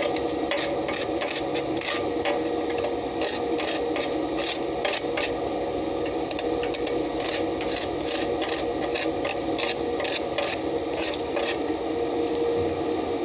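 Stick-welding arc crackling and sizzling steadily, with irregular sharp pops all through and a faint steady hum underneath.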